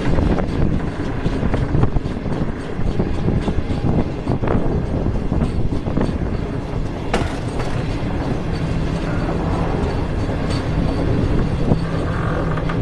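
Pak Business Express passenger train heard from aboard as it rolls into a station: a steady rumble with wheels clicking irregularly over rail joints and points. A faint steady whine comes in near the end.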